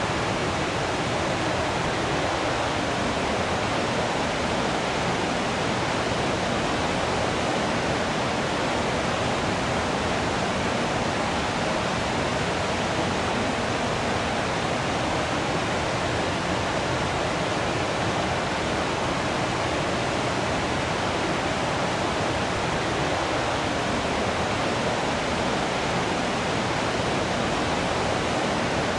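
Waterfall: falling water rushing in a steady, unbroken hiss that holds the same level throughout.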